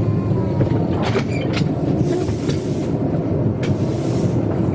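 Narrow-gauge steam train running, with a steady rumble, a few metallic clanks about a second in and two hissing bursts of steam.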